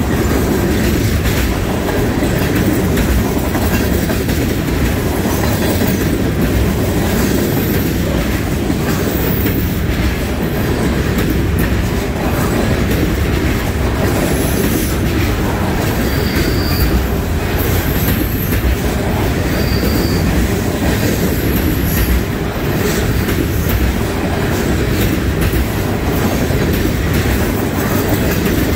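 Freight train of tall trash-hauling gondola cars rolling past close by: a steady, loud rumble and clatter of wheels over the rails, with a few brief high-pitched wheel squeals.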